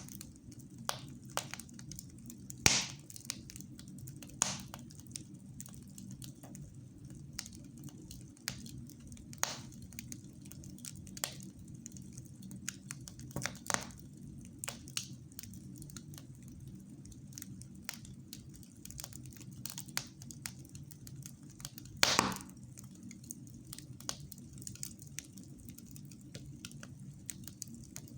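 Fire in a fireplace crackling, with irregular sharp pops over a steady low hum; the loudest pops come about three seconds in and again a little past twenty seconds.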